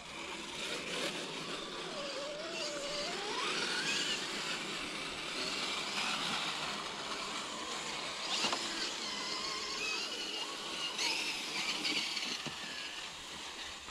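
Scale RC crawler truck's electric motor and drivetrain whining, the pitch rising and falling as the throttle is worked, with a couple of brief clicks.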